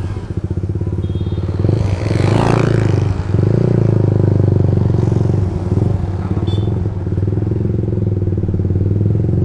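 Motorcycle engine with an aftermarket Ronin Black Katana exhaust running steadily under way. Its note briefly drops near the start and again about three seconds in, and a short rush of noise passes around two seconds in.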